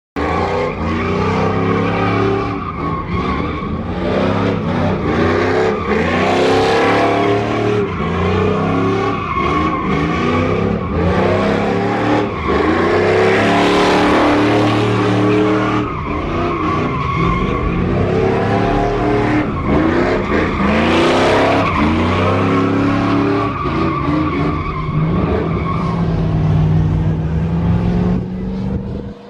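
Vehicle engine revving hard over and over, its pitch rising and falling every second or two, with tyre squeal and skidding, as in a burnout or sideways driving. The hiss swells strongly three times.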